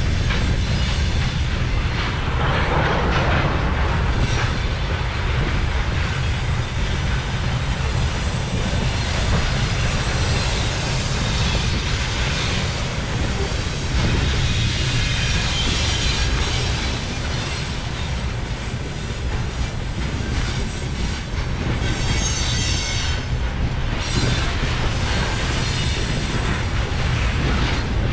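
Train running on the rails with a continuous heavy rumble and wheel noise. A thin high wheel squeal comes in for a few seconds past the middle.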